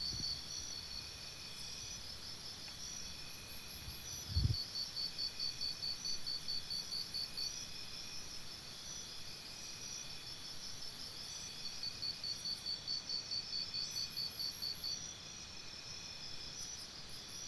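Crickets chirping, several at once, in fast, evenly pulsed high trills that come and go, with one brief low thump about four seconds in.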